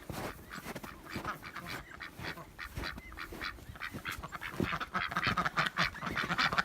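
Domestic ducks quacking, a busy run of short calls that grows louder over the last couple of seconds.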